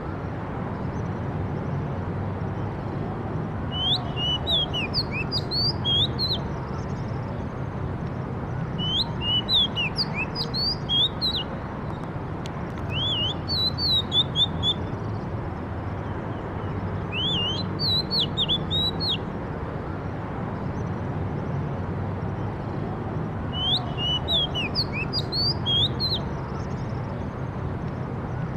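A songbird singing in short phrases of quick, sharp, sweeping high notes. A phrase comes every four to five seconds, over a steady low background rush.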